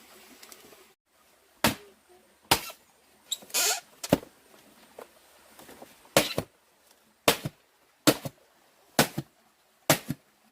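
Repeated sharp blows of a hand tool on wood, roughly one a second and a little irregular, with a short scraping noise between the second and third blows.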